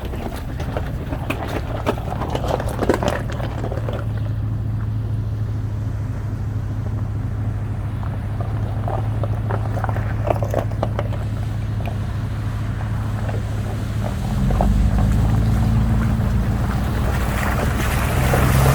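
A vehicle driving on a rough road, its engine a steady low drone with scattered clicks and rattles. The engine grows louder and heavier about three-quarters of the way through.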